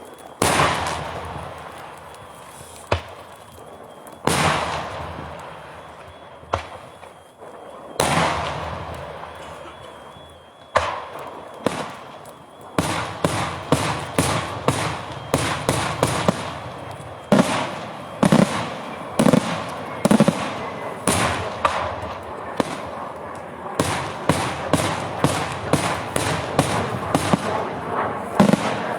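Daytime fireworks going off: loud single bangs a few seconds apart, each trailing off in an echo, then from about halfway a fast, dense string of blasts.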